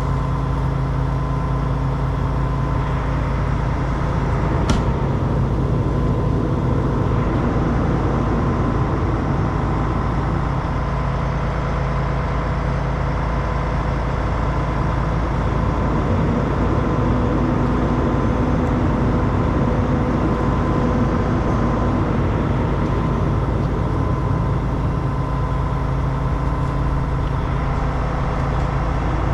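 Heavy diesel truck engine running steadily at a constant speed while the stuck semi is being pulled out, with one sharp click about five seconds in.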